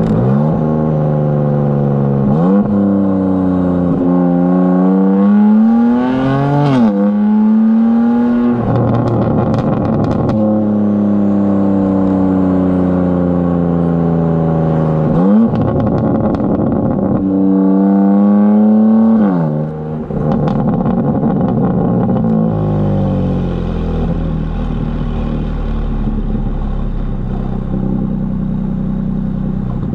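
BMW M4 Competition's S58 twin-turbo straight-six, breathing through high-flow cats and downpipes, pulls hard through the gears. Its pitch climbs and drops sharply at each quick upshift, with brief crackles around the shifts. It holds a steady cruise, makes a second run of pulls through the gears, then falls off as the car slows and settles into low steady running for the last few seconds.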